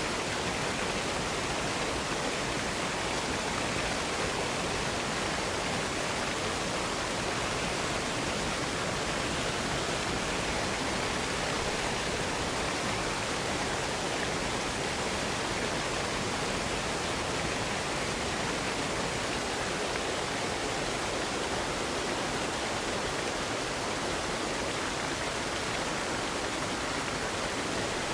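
Waterfall, water pouring and rushing in an even, unbroken roar.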